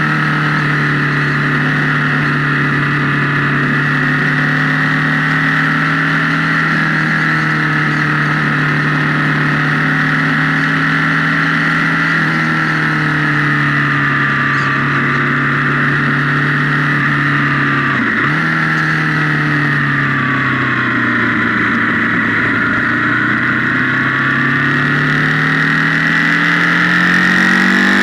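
Motorcycle engine running under way at fairly steady revs, recorded onboard through a camera microphone that makes it sound distorted, as if through an amplifier. The pitch dips sharply and recovers about two-thirds of the way through, then sags slowly and climbs again near the end.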